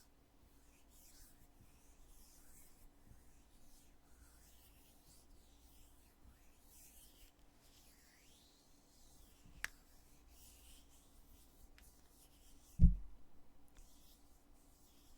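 Lid of a foundation container being handled: faint rubbing, a sharp click a little before two-thirds of the way in, then a heavy, dull thump of the lid, the loudest sound, near the end.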